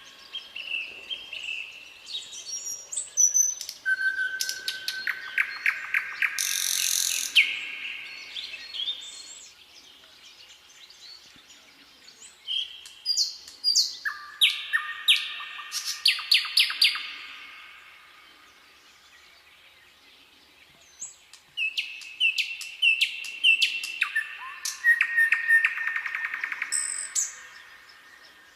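Songbirds singing: three bouts of quick chirped and trilled phrases that step down in pitch, with short quieter pauses between them.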